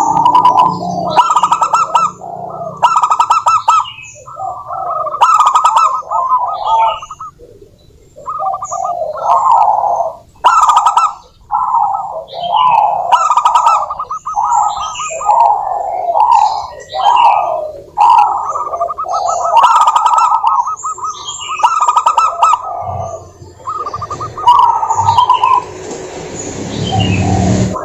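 Zebra doves cooing: a string of rolling, stuttering coo phrases about a second each, one after another with short gaps, with thin higher chirps over them. A hiss runs under the calls near the end.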